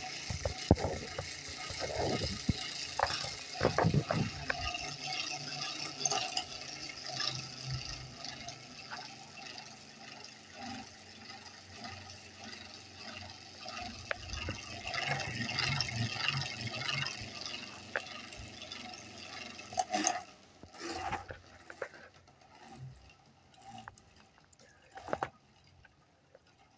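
3D-printed gear-driven ceiling fan running: a steady whir and ticking from its gear drive. About twenty seconds in the whir fades as the fan begins its spin-down, and a few sharp clicks follow.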